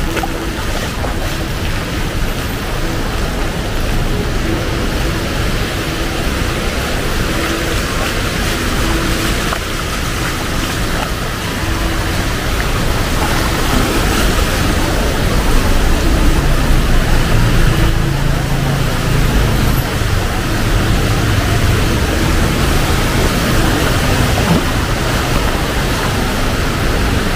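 Heavy rain pouring down as a steady, dense hiss. A vehicle engine's low rumble swells through the middle and then eases off.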